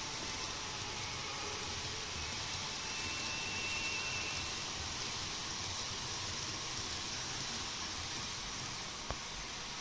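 N gauge model Shinkansen train running on the track layout: a low rumble under a steady hiss. A single sharp click comes about nine seconds in, after which the rumble drops away.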